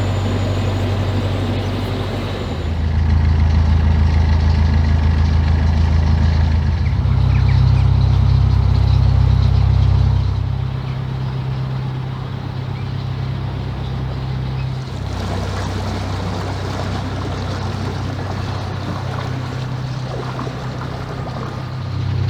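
Narrowboat's diesel engine running under way, a steady low drone that steps up in speed about three seconds in and again around seven seconds, then eases back after about ten seconds.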